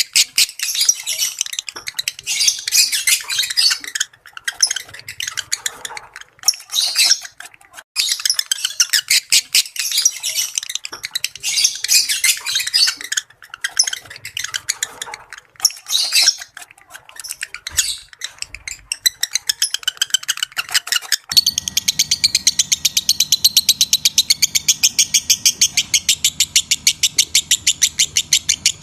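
Lovebirds chattering in rapid, shrill, trilling bursts with short pauses. About two-thirds of the way through, the sound switches abruptly to a steady, fast, evenly repeated run of calls over a low hum.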